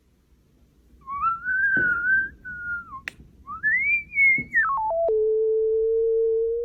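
A whistle: a pure, clear note that slides up and down, climbs high, then steps down quickly and holds one lower steady note for about a second and a half before breaking off.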